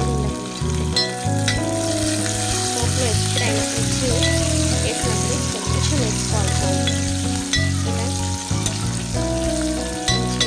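Green chillies, onions and curry leaves sizzling as they fry in hot oil in an aluminium pot, stirred with a steel ladle that clicks against the pot now and then. Background music with a shifting bass line plays underneath.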